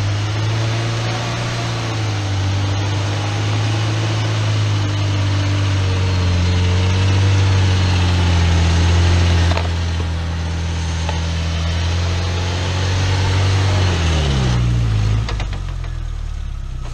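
Suzuki Samurai SJ413's four-cylinder engine running steadily under load as the jeep crawls up a bank out of a creek. The revs ease about ten seconds in, then fall away near the end as it pulls up alongside.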